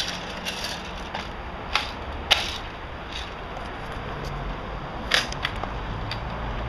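Airsoft BB gun firing single shots: about half a dozen short, sharp snaps at irregular intervals, the loudest about two seconds in and about five seconds in.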